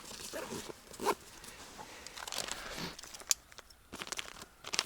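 Irregular rustling and crinkling with scattered sharp clicks, from camouflage material and gear being handled while a hunting blind is set up.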